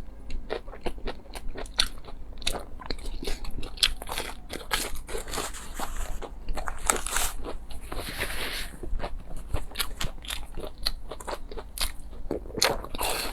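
Close-miked eating sounds: crunchy bites and chewing made up of many sharp crackly clicks, with a longer hissing patch about eight seconds in.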